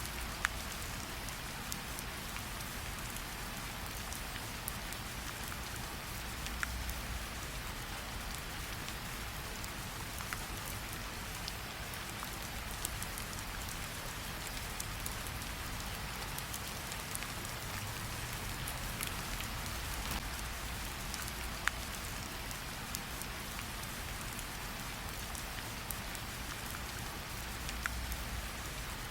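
Steady rain, with a campfire crackling under it and a few sharp pops now and then.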